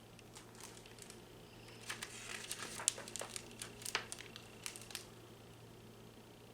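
Picture book being closed and handled: crinkling and rustling with a few light taps, busiest from about two to five seconds in.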